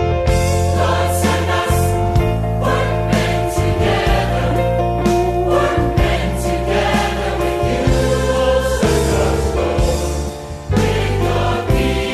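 A choir singing a Christian song over instrumental accompaniment with a strong, sustained bass line.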